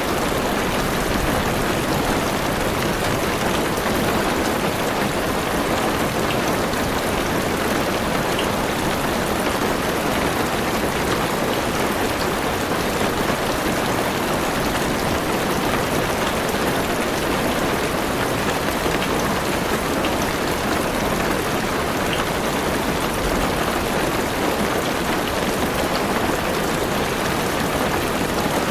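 Heavy rain falling steadily on a car roof and windows, heard from inside the car as an even, unbroken patter.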